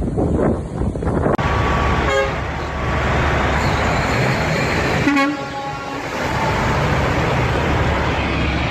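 A steady, loud rushing noise of storm or flood, with two short horn toots about two and five seconds in.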